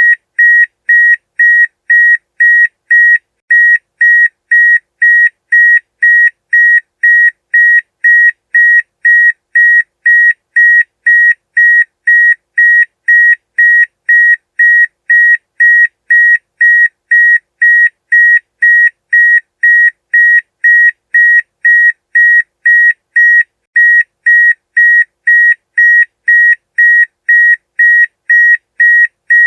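Electronic wake-up alarm beeping: a loud, steady high-pitched tone pulsing on and off about twice a second.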